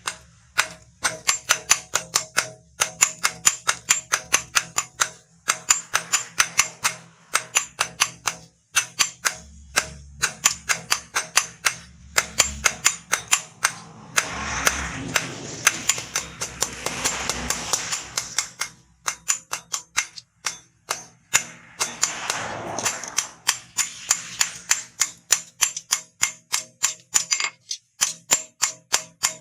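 Hand hammer striking steel rebar on an anvil in a long run of ringing blows, about two to three a second, broken by short pauses. A few seconds of rushing noise come in about halfway through.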